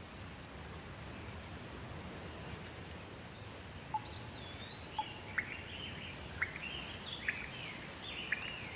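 Steady rain falling, with a bird calling over it from about halfway through: a held whistled note, then a string of short sharp chirps sliding down in pitch.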